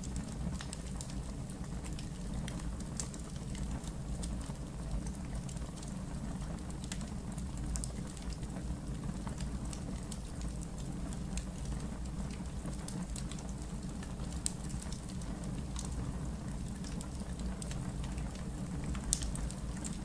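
Wood fire crackling in a fireplace: a steady low rumble of flame with frequent small pops and snaps of burning logs, and one sharper pop near the end.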